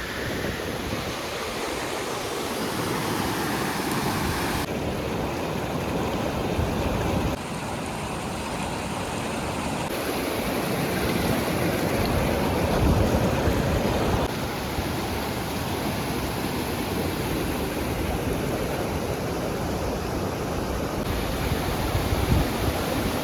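Steady rushing outdoor noise, like wind or flowing water, with no voices; its tone shifts abruptly several times, about 5, 7, 10, 14 and 21 seconds in.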